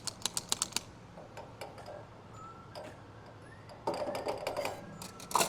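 A quick run of light, sharp clicks for about a second, then a low steady background with a short clatter about four seconds in and one more sharp click near the end.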